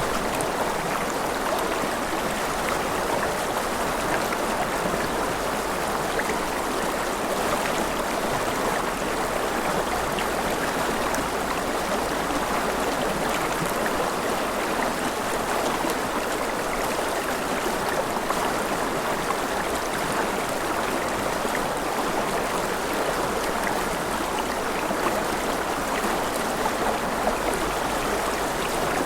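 Mountain river flowing over rapids: a steady, unbroken rush of water.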